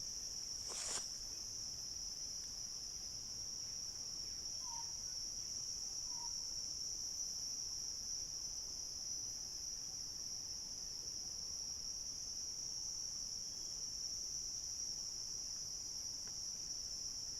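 Chorus of crickets trilling steadily in one unbroken high-pitched drone. Two brief faint chirps sound in the middle.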